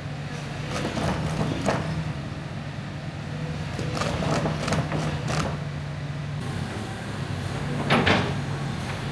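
Diesel engine of a Sany SY215C hydraulic excavator running steadily, with several short sharp mechanical noises over it, the loudest about eight seconds in.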